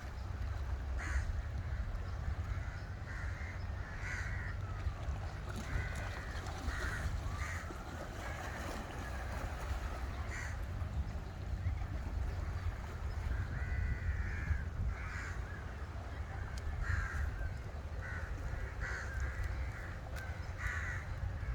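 Birds cawing repeatedly, short harsh crow-like calls coming every second or two, over a steady low rumble.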